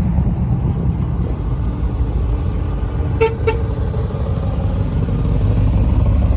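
A vehicle engine runs with a steady low rumble, and a car horn gives two short toots about three seconds in.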